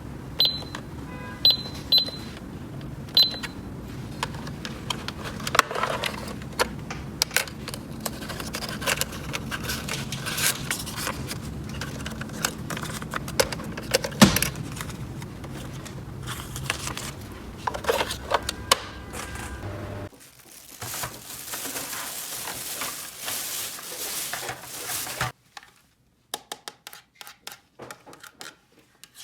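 A small electronic toy beeps a handful of short, high beeps in the first few seconds. Then come many clicks and clatters of small plastic toy pieces being handled, which grow sparser after a low background hum stops about twenty seconds in.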